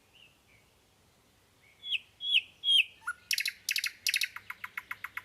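A small songbird calling: three short, sharp down-slurred chirps about two seconds in, followed by a fast, rapidly repeated trill to the end.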